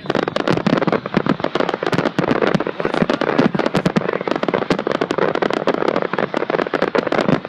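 Fireworks display going off: a dense, continuous crackle of sharp pops and bangs, many a second.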